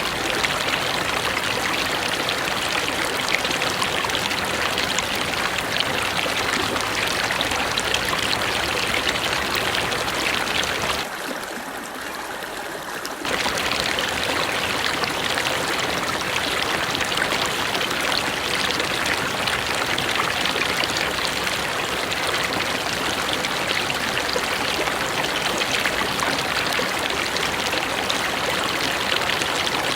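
Mountain river rushing steadily over rocks. About eleven seconds in it turns quieter and thinner for about two seconds, then comes back abruptly.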